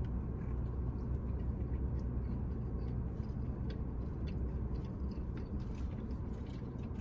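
A person chewing a mouthful of cheese fries, with faint wet mouth clicks, over a steady low hum.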